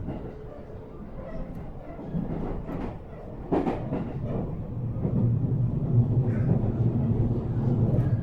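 A JR Central 313 series electric train heard from inside the car while running: a steady rumble with a few sharp knocks, and a low hum that grows louder about halfway through.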